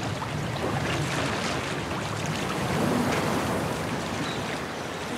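Sea water splashing and sloshing at the surface, with wind buffeting the microphone.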